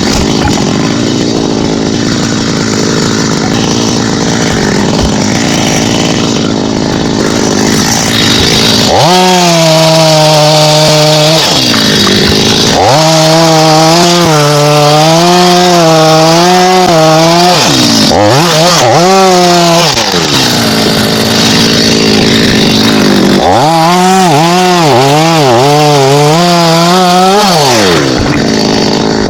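Chainsaw running hard through wood. For the first several seconds it sounds rougher, then it settles into a steady high-revving tone whose pitch wavers and drops briefly a few times before picking up again.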